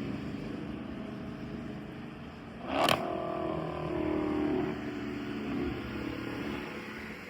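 Dodge Charger Hellcat Redeye's supercharged 6.2-litre V8 running through an exhaust with its mid mufflers deleted, its pitch rising and falling as the car is driven. A short, loud burst of noise cuts in just before the three-second mark.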